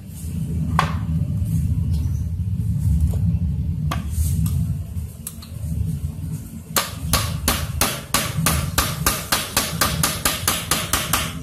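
Hammer blows during a water-pump repair: a few single knocks, then a fast, even run of about four or five strikes a second through the second half, over a steady low hum.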